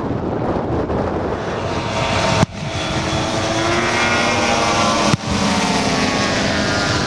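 Engine of a large radio-controlled model warbird running in flight, a steady propeller-plane drone whose engine tones come through more clearly in the second half. The sound briefly cuts out twice, about two and a half and five seconds in.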